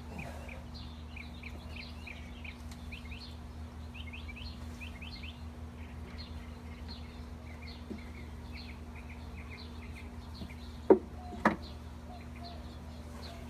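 Small birds chirping in quick, repeated short notes, over a low steady hum. Two sharp knocks close together near the end are the loudest sounds.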